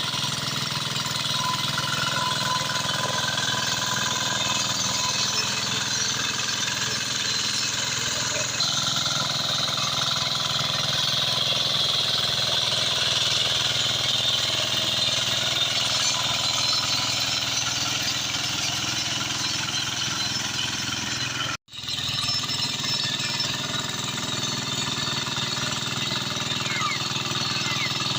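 Hand tractor (walk-behind tractor) engine running steadily under load while harrowing a paddy field, with a rapid, jackhammer-like chug. The sound cuts out for a split second about two-thirds of the way through.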